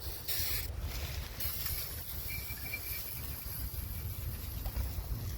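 Aerosol can of engine degreaser spraying in two short hisses in the first second and a half, over a steady low rumble of wind on the microphone.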